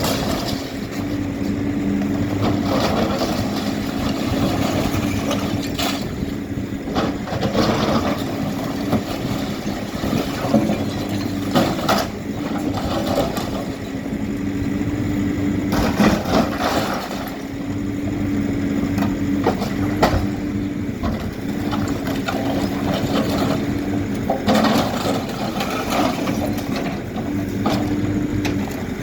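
HİDROMEK K4 Alpha backhoe loader's diesel engine running as it works, its note shifting now and then, with sharp knocks and crashes of breaking building material at irregular moments.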